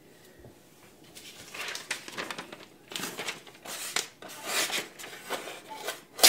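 A series of gritty scraping strokes by hand against an abrasive surface, starting about a second in, then a sharp knock at the very end.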